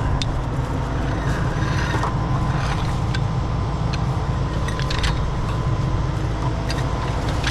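Heavy diesel truck engine running steadily at a constant speed, with scattered light metallic clicks and ticks over it.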